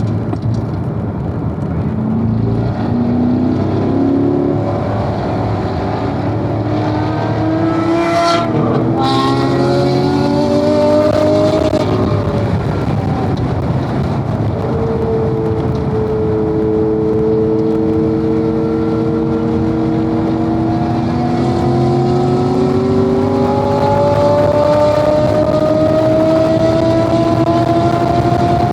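Corvette V8 engine at speed on a race track, its pitch climbing as it accelerates, breaking briefly at a gear change, easing off, then climbing again, over steady road and wind noise.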